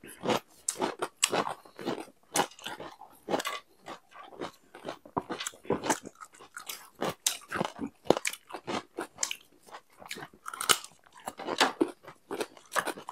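Close-miked eating sounds: chewing, lip smacking and crunching of food, a quick irregular run of wet mouth clicks.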